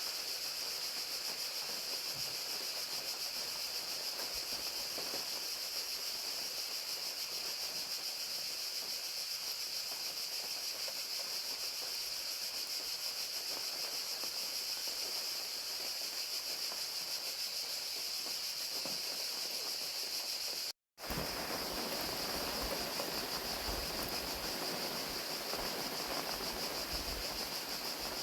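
Crickets trilling in a steady, unbroken high-pitched chorus over the even hiss of falling rain. About 21 seconds in the sound drops out for a split second, and after it the rain carries more low rumble.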